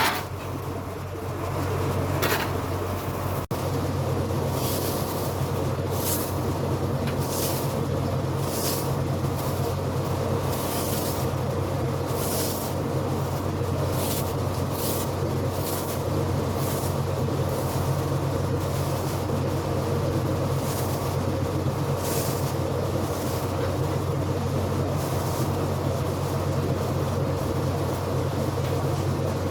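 A motor running steadily with a low hum, joined from about four seconds in by short swishing sounds roughly once a second.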